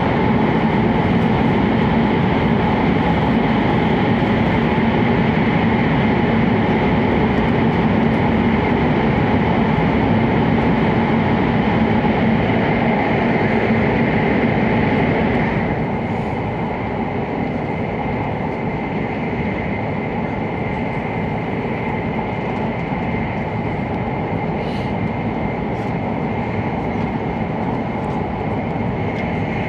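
Interior noise of an E7-series Hokuriku Shinkansen train running at speed: a steady rumble and rush of running noise. About halfway through it drops a little in level, and a faint high hum remains.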